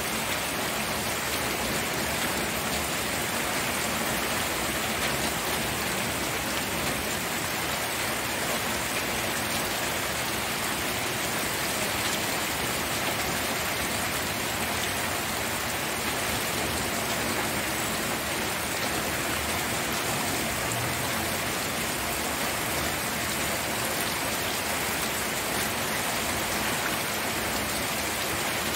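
Steady rain falling, an even dense hiss of many drops on a surface with no thunder or other events.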